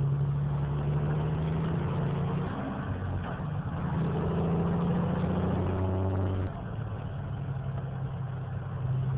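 Semi truck's diesel engine heard from the cab while driving, a steady low drone that shifts in pitch a couple of times, then drops off suddenly about two-thirds of the way through as the throttle eases.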